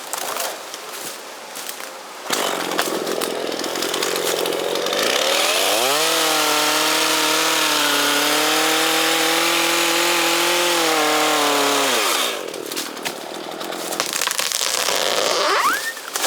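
Chainsaw starts running about two seconds in, revs up, and cuts steadily for about six seconds, its pitch sagging slightly under load. Near twelve seconds it drops back to idle, and it revs briefly again near the end.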